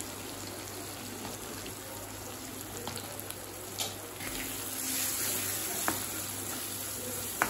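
Onions and tomatoes sizzling gently in oil in a kadai. From about four seconds in a wooden spatula stirs the chilli-powder masala, with a few light scrapes and knocks against the pan.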